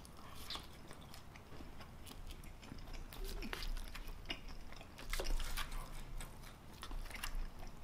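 A person chewing mac and cheese close to the microphone: quiet, wet mouth smacks and small clicks scattered irregularly.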